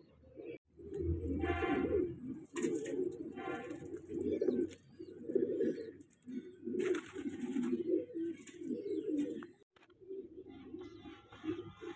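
Pigeons cooing in repeated low, warbling calls, with a few higher, squeakier calls mixed in.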